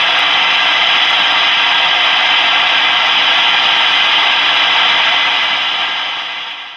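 Steady static hiss from the Galaxy DX-98VHP radio's receiver with no signal coming in, fading out near the end.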